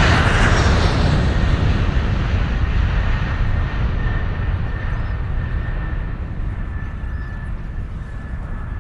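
Jet ski engine running, loudest at the start and fading slowly as the craft moves away, with a faint steady whine in the second half.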